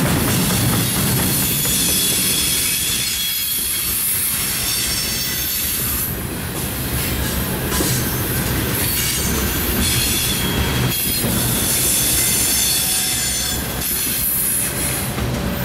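Freight cars rolling past close by: a steady rumble of steel wheels on rail with a thin, high-pitched wheel squeal that comes and goes.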